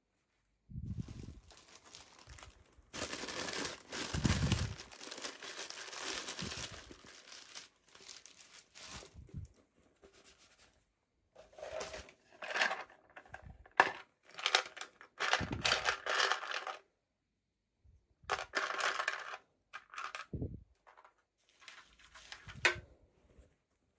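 Toy packaging being handled and opened by hand: irregular bursts of rustling and tearing with a few sharp clicks and short pauses between them.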